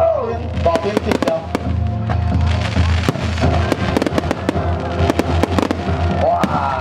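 Fireworks going off in quick succession, a dense run of sharp bangs and crackles, over music playing.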